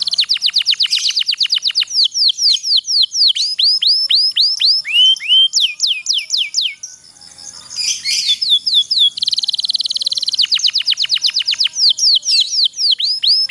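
Domestic canary singing two long song phrases. Each opens with a rapid roll of very fast repeated notes and slows into a run of separate sweeping whistled notes. A short noisy burst falls between the phrases, about eight seconds in.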